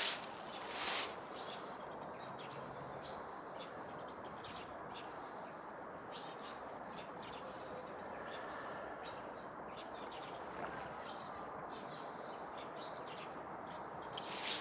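Small birds chirping in short, scattered calls over a steady outdoor background hiss, with a brief scuff about a second in.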